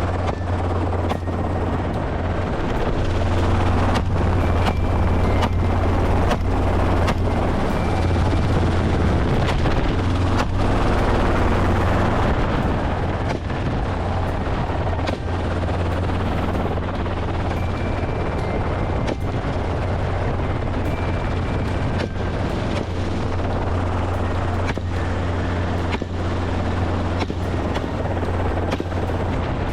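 Helicopter running steadily overhead, a deep continuous hum under a dense engine and rotor noise, broken by sharp cracks about once a second.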